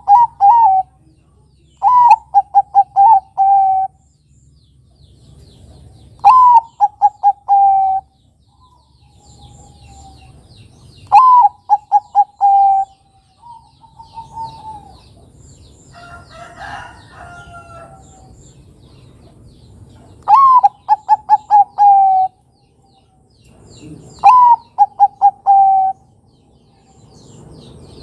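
Zebra dove (perkutut, Bangkok type) singing its staccato cooing song: phrases of a short rising note followed by a quick run of clipped coos, repeated five times with pauses between. Faint small-bird chirps in the background, and a different, rougher call about halfway through.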